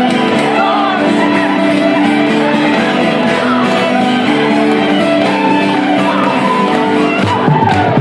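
Live Irish traditional band playing a lively reel on flute, fiddle, guitar and spoons, with the spoons' quick clicking running over the melody. Whoops and shouts from the crowd break in near the end.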